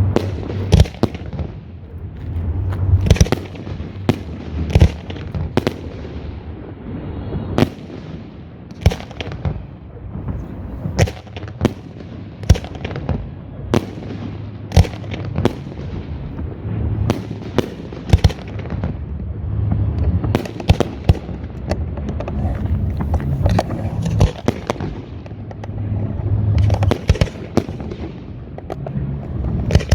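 Aerial fireworks display: a dense, irregular run of shell bursts, many sharp bangs in quick succession over a continuous low rumble of booms.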